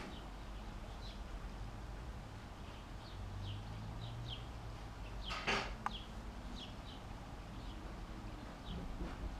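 Birds chirping: scattered short, high, falling chirps every half second or so over a low steady hum, with one louder, sharp sound a little past halfway.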